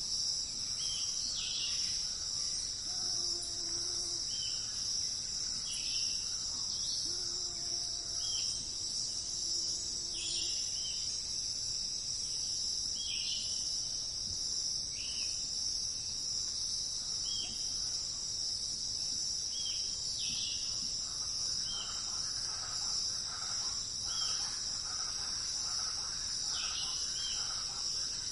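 Forest ambience: a steady, high-pitched insect chorus of crickets, with short bird chirps repeating every second or two over it.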